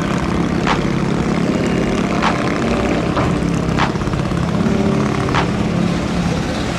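A vehicle engine running with a steady low drone, with a sharp hit about every second and a half over it.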